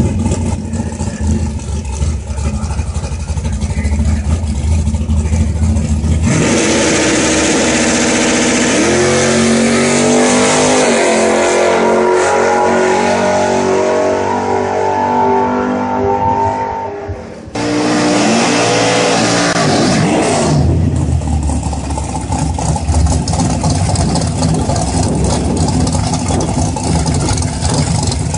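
A car engine revving and accelerating. It runs low and steady at first, gets louder about six seconds in, then climbs in pitch for several seconds. It drops off briefly, then climbs again.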